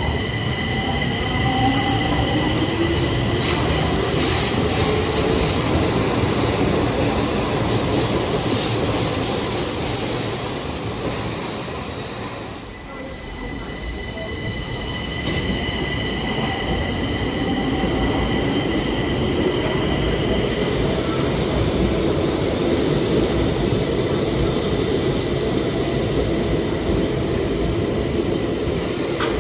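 Stockholm Metro train running on the track, with wheels squealing in steady high whistling tones over a continuous rumble. A lower whine rises in pitch twice, and the sound dips briefly about halfway through.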